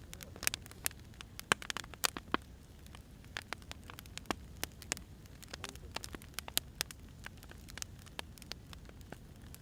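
Burning firewood crackling: irregular sharp pops and snaps, several a second, over a low steady rumble.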